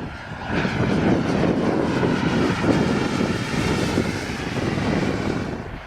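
Small jet turbine of a Boomerang Elan RC jet running as the model flies past: a steady rushing whine that swells about half a second in and fades near the end.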